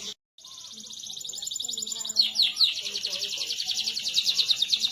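Domestic canary singing a long rapid rolling trill of many even notes a second. It starts right after a brief dropout at the very beginning, builds in loudness, and about two seconds in switches to a louder roll of quick downward-sweeping notes.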